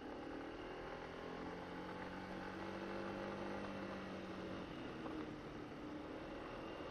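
Honda SH150i scooter's single-cylinder engine running steadily under way, a continuous hum over a haze of wind and road noise. The engine note shifts slightly about four and a half seconds in.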